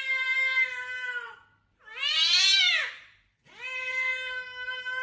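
A cat yowling in three long, drawn-out meows with short pauses between them; the middle one is the loudest and rises then falls in pitch.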